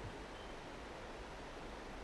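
Faint steady hiss with a low rumble beneath it, the background noise of an old outdoor field recording, and a brief faint high peep about half a second in.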